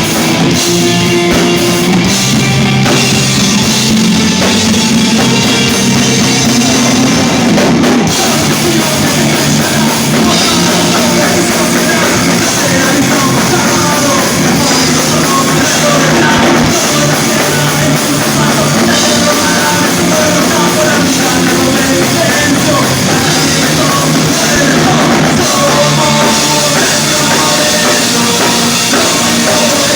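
Live rock band playing loudly: drum kit and guitars, with a singer's voice over them.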